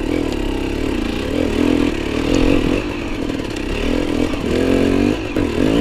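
Enduro dirt bike engine running at low revs, its pitch rising and falling with the throttle as it is ridden slowly over rough ground.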